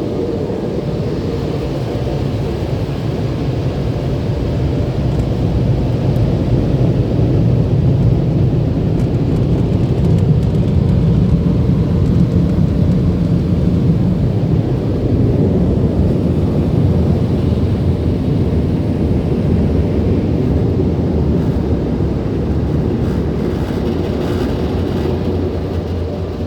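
MacNeil car wash tunnel's dryer blowers running: a loud, steady roar that swells over the first several seconds and eases off slowly toward the end.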